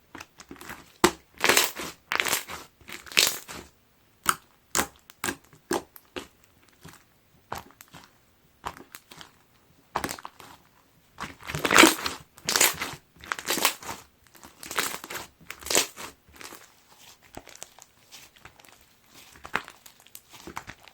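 Clear slime packed with fishbowl beads being squeezed and pressed by hand, giving uneven runs of crunching and crackling with short pauses between them, loudest about twelve seconds in.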